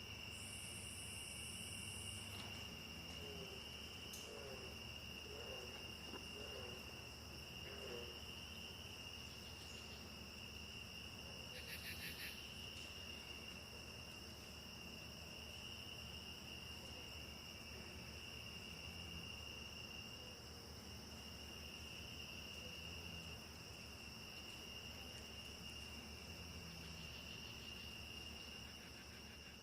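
A faint, steady chorus of crickets: a continuous high trill that holds one pitch. About twelve seconds in, a brief louder raspy buzz stands out over it.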